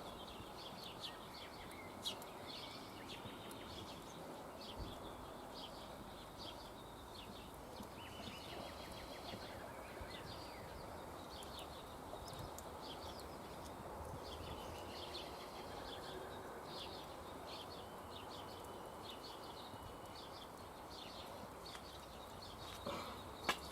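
Small songbirds chirping and twittering repeatedly over a faint, steady outdoor hiss, with an occasional sharp click.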